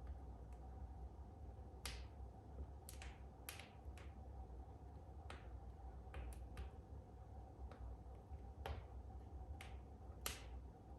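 Faint crackling of wood burning in a fireplace: about a dozen sharp, irregular pops.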